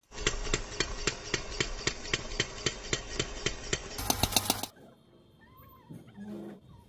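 A small gear-driven machine running with a steady mechanical clatter, a sharp knock about four times a second, which quickens and then cuts off abruptly about two-thirds of the way in; only faint sounds follow.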